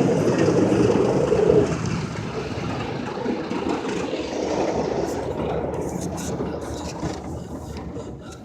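Automatic car wash equipment working over the car, heard from inside the cabin as a dense rushing and rumbling against the body. It is loudest for the first second and a half, then fades away as the machine moves off.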